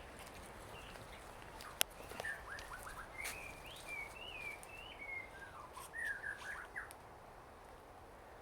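A songbird singing: a few short down-slurred notes, then a wavering warbled phrase, then another short run of notes. A single sharp click about two seconds in.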